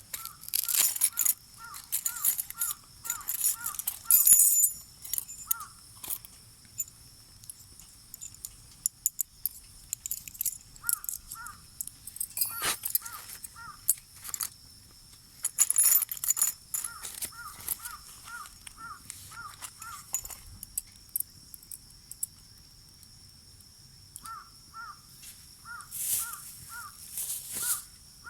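A crow cawing in runs of short, evenly spaced caws, about three a second, stopping and starting several times. Over it runs a steady high-pitched whine, with scattered sharp clicks and rustling, the loudest cluster about four seconds in.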